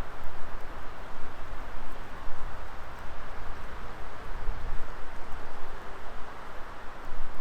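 Wood fire burning in a Coleman Fire Disk fire pit: a steady hiss of flames over a low, uneven rumble.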